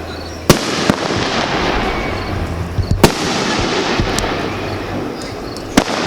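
Consumer (Class C) fireworks going off: sharp bangs of bursting shells about half a second in, again just after, twice around three seconds, and once near the end, over a steady hiss of other effects.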